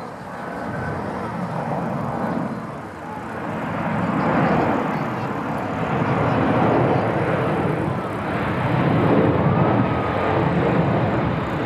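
Airbus A310 jet airliner passing close on its landing, its engine noise loud and rising over the first few seconds, then staying high and uneven.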